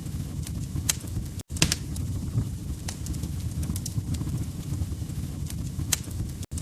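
Wood fire crackling: a steady low rumble of burning logs with a few sharp pops, the loudest about a second in and near the end. The sound cuts out for an instant twice.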